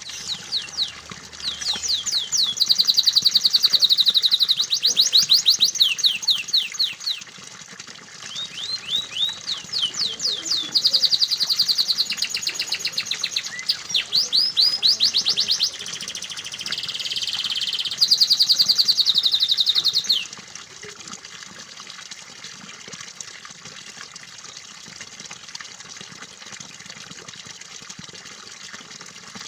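Domestic canary singing fast trills and rolled phrases of rapidly repeated high notes for about twenty seconds, over a steady sound of running water; the song stops suddenly and only the water continues.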